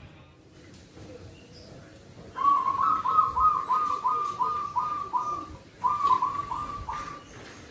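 Zebra dove (perkutut) cooing: a quick run of about ten short, hooked notes starting a little over two seconds in, a brief break, then four more.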